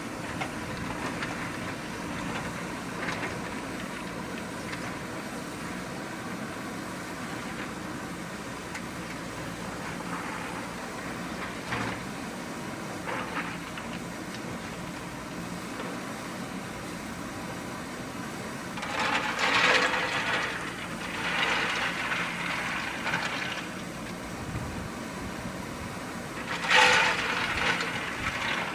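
JCB 3DX backhoe loader's diesel engine running steadily under work. Near the end come three louder, rougher bursts of noise from the machine at work.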